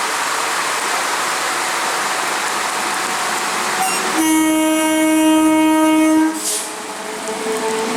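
Howrah–Bardhaman electric local train running past with a steady rushing noise, then its horn sounds one steady blast of about two seconds starting about four seconds in. A second, higher horn tone starts near the end.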